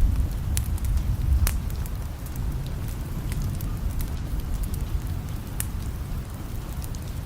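Fireplace crackling with scattered sharp pops over steady rain hiss. Under them is a low rumble of distant thunder that eases after the first couple of seconds.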